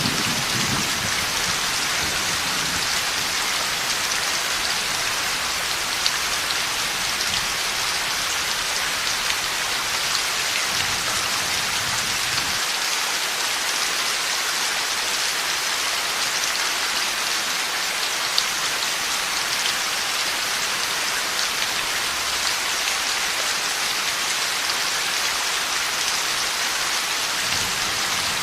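Heavy rain falling steadily in a thunderstorm. The tail of a low thunder rumble fades out in the first couple of seconds, and a fainter distant rumble rises briefly around ten seconds in.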